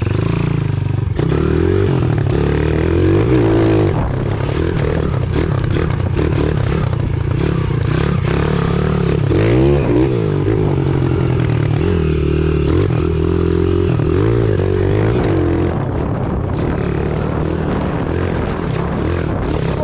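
Pit bike engine running under load, revving up and down again and again as the throttle is worked, with scraping and clattering from the ride.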